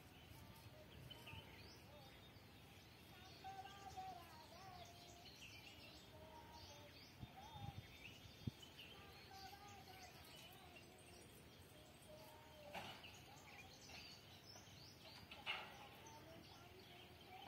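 Near silence with faint, scattered bird chirps and warbling calls, and two slightly louder calls near the end.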